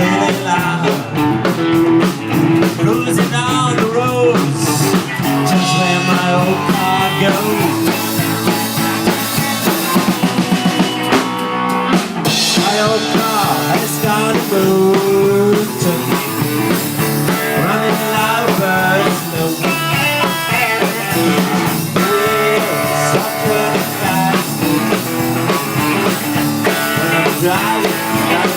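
Rock band playing an instrumental passage of the song: electric guitar lead with bending notes over a drum kit, with a quick run of drum hits about ten seconds in.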